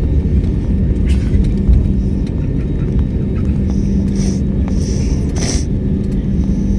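Steady low rumble of an airliner cabin while the plane taxis, with a steady hum that drops out and returns. A few short hisses sound past the middle.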